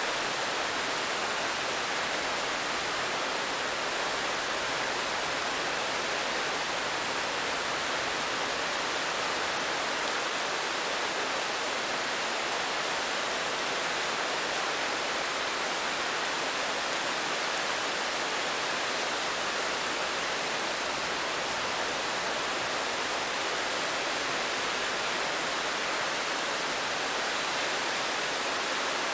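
Steady rain falling: an even hiss with no single drops standing out and no change in level.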